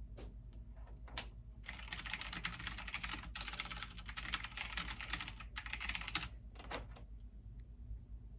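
Computer keyboard typing: a few single keystrokes, then a fast run of typing lasting about four and a half seconds with two short breaks, and a final couple of single key presses.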